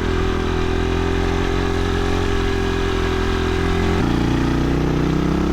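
Dirt bike engine running at a steady speed, its note shifting lower about four seconds in.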